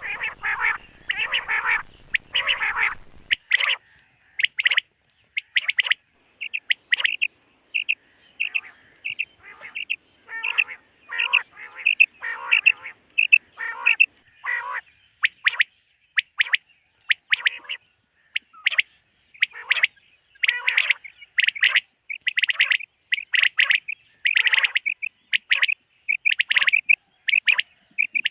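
Common quail calling: short, sharp notes repeated in quick succession. The first three seconds are denser and reach lower.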